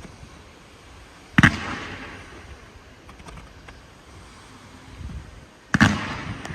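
Low-noise display fireworks: two bursts about four seconds apart, each a sharp bang followed by a fading crackle, with faint scattered crackles between.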